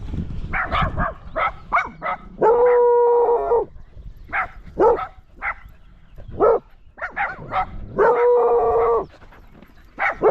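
A pack of dogs barking again and again, agitated by a large crowd of people ahead, with two long howls about two and eight seconds in.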